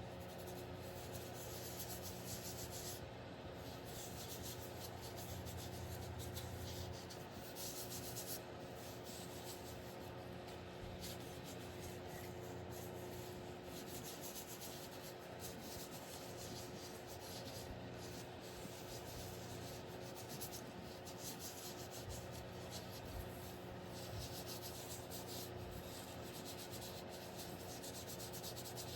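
Hand-sanding the wooden handle of an old hammer: sandpaper rubbing back and forth in a steady run of short scratchy strokes, over a faint steady hum.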